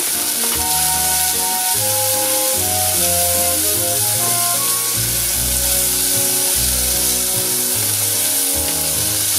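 Asparagus pieces sizzling steadily as they fry in a small pan, with background music playing clear held notes over it.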